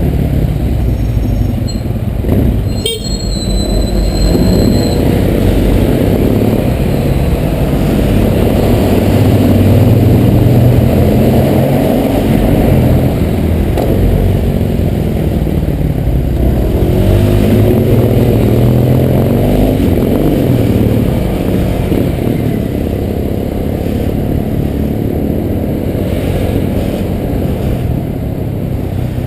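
Honda PCX 125 scooter's single-cylinder engine running on the move, its pitch rising and falling as it speeds up and slows in traffic, under heavy low rumble of wind and road noise. A brief high tone is heard about three seconds in.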